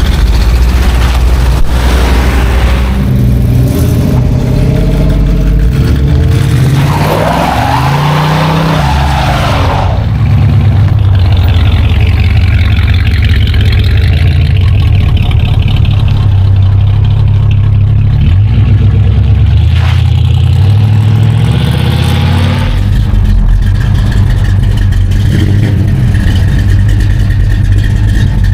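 Classic American V8 muscle cars driving past one after another, engines running and revving. The engine pitch rises and falls as each car goes by.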